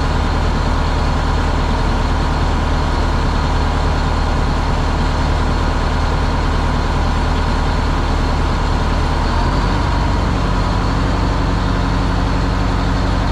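Detroit Diesel engine of a classic monster truck running steadily at idle, with a slight change in its note about ten seconds in.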